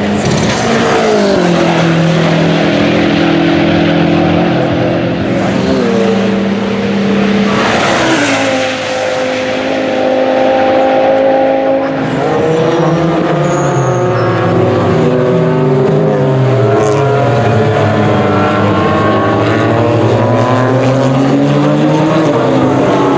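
Several race cars going past at speed one after another, their engines running hard and changing pitch through gear changes and the drop in pitch as each car passes. The engine notes overlap and cross more densely in the second half.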